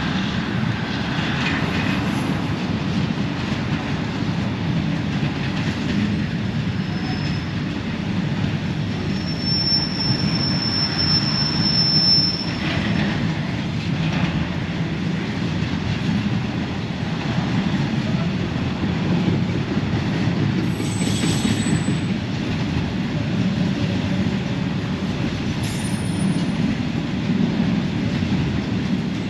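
Long narrow-gauge container freight train rolling past: a steady low rumble of wagons on the rails, with a few brief high wheel squeals, the longest about ten seconds in and another about twenty-one seconds in.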